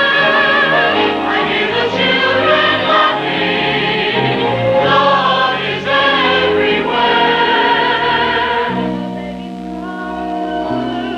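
Church choir singing with accompaniment. The voices stop about nine seconds in, leaving held low chords.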